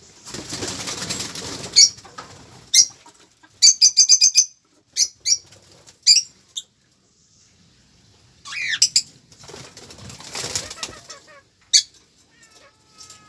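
Birds flapping their wings in two rustling spells, with short, sharp, high chirps in between, including a quick run of chirps about four seconds in.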